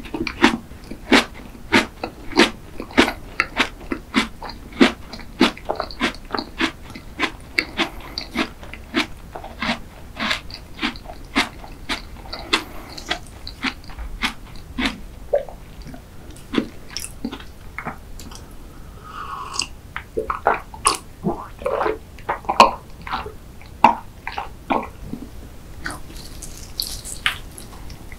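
Close-miked mouth sounds of a person chewing soft dessert with lips closed: wet clicking smacks about twice a second, growing sparser and more uneven in the second half.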